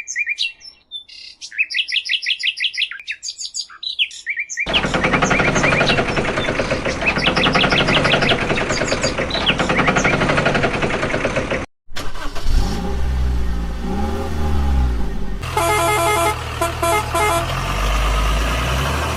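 Birds chirping, joined about five seconds in by loud steady vehicle noise. After a sudden break near twelve seconds, an engine runs with its pitch rising and falling, then a run of short repeated beeps, over a low engine rumble.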